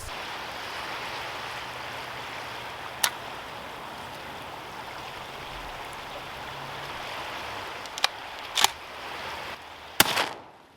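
A steady rushing noise, with a few light clicks, then one loud shotgun shot about ten seconds in that rings on briefly.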